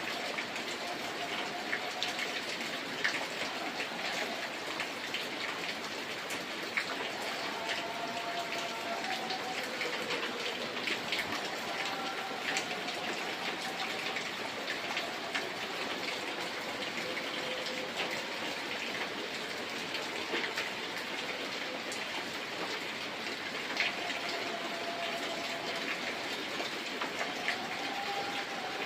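Steady rain: an even hiss of falling water dotted with many sharp drop ticks, with a faint wavering tone in the background now and then.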